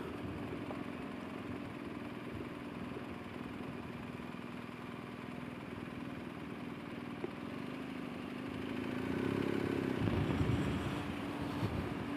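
Motorcycle engine running steadily at low speed, revving up briefly about nine seconds in and then easing back.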